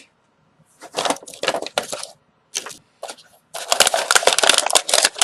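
Stiff plastic packaging from a collectible tin crackling and crinkling as it is handled. There are a few short bursts about a second in, then a longer, denser stretch of crackling near the end.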